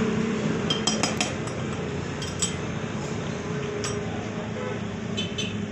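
Light metallic clinks and taps, a few scattered sharp strikes over a steady low background rumble.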